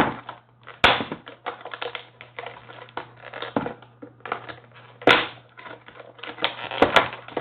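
Stiff plastic packaging being handled and pried at, giving irregular clicks and crackles, with sharper snaps about a second in, near five seconds and near seven seconds.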